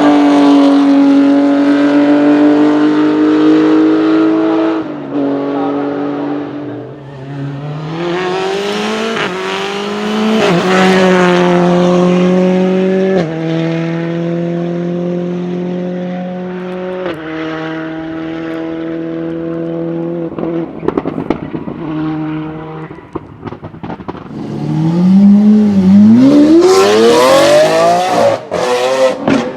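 Racing car engine at high revs, its pitch dropping in steps at each upshift. Near the end it revs up sharply and is followed by a few sharp cracks.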